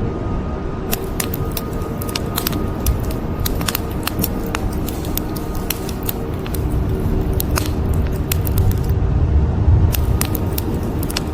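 Wood fire crackling, with many sharp pops and snaps, over a steady bed of rain. A low rumble of thunder swells near the end.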